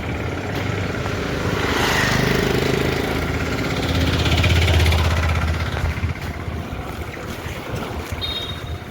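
A motor vehicle's engine running, its steady hum swelling louder about two seconds in and again, loudest, around four to five seconds in before easing off.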